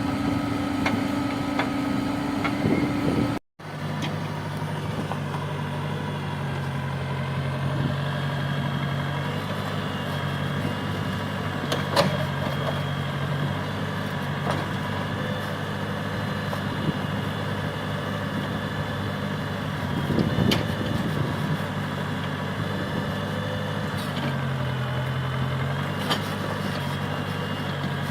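Diesel engine of an earthmoving machine running steadily, with an edit cut about three and a half seconds in after which the engine runs at a lower pitch. A couple of sharp knocks come through over the engine.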